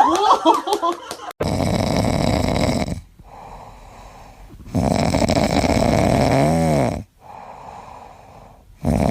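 A pet snoring loudly. Rasping breaths of about two seconds each, three in all, come between quieter stretches, and one ends in a squeaky rise-and-fall in pitch.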